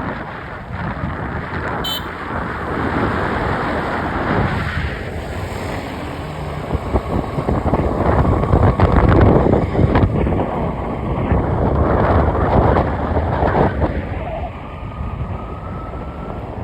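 Vehicle on the move, its road and engine noise mixed with wind buffeting the microphone in gusty swells; a faint rising whine comes in near the end.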